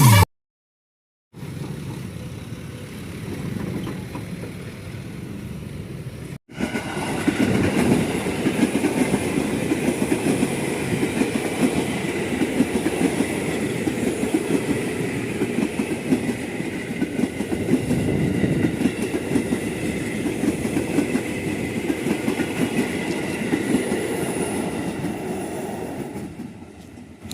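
A train running past on the rails, its wheels clattering over the rail joints; the sound jumps louder about six seconds in and eases off near the end.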